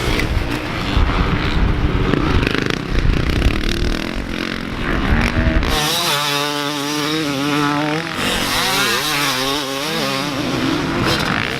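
Motocross dirt bike engine revving. At first it is thick with rumble and noise. About six seconds in it changes to a clearer engine note that rises and falls quickly with the throttle.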